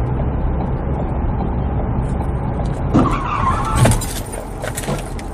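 Steady road and engine rumble of a car, then about three seconds in a sudden squeal and, less than a second later, a loud crash, followed by a few scattered clicks and clatters.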